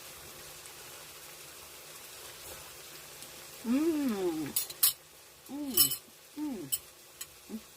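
A woman's appreciative 'mmm' sounds while tasting the food: about four short hums that rise and fall in pitch, starting about halfway in, with a few sharp clicks among them. A faint steady hiss runs underneath.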